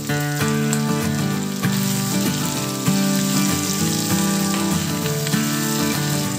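Mutton pieces sizzling as they fry in a pan, stirred and turned with a wooden spoon, with background music.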